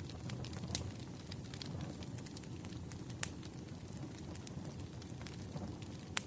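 Crackling wood fire: a steady low rumble with frequent sharp pops and snaps, the loudest about three seconds in and again near the end.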